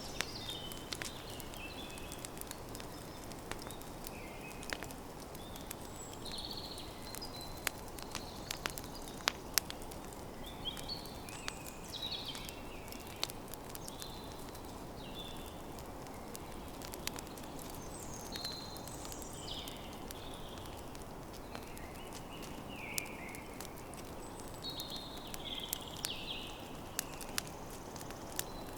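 Campfire crackling, with sharp irregular pops over a steady low rush. Birds call in short chirps every second or two over the fire.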